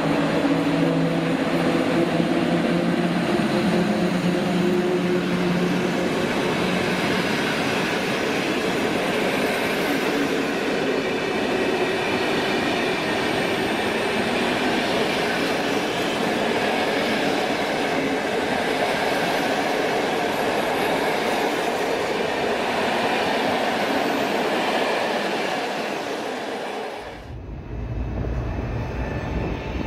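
Train running on the rails at a station, a continuous rumble with several hum tones falling in pitch over the first few seconds. About 27 s in the sound changes abruptly to a deeper, duller rumble.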